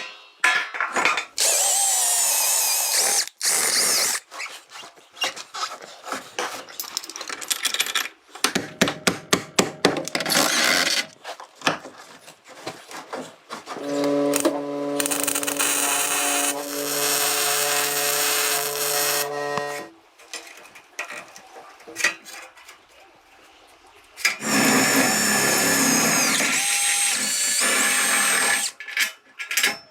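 A handheld power tool such as a drill, running in several bursts of a few seconds each with its motor pitch wavering. Clicks and knocks fall between the runs.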